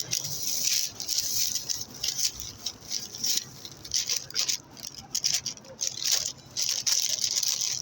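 Plastic cookie bag crinkling and rustling in irregular bursts as it is handled and opened.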